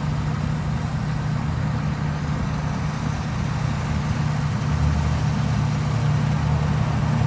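Diesel engine of harvest machinery running steadily, a low even drone.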